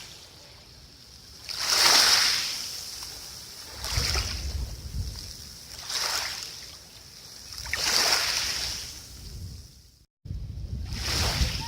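Rushing water surging in repeated swells about every two seconds, like waves washing in, with a brief cut to silence near the end.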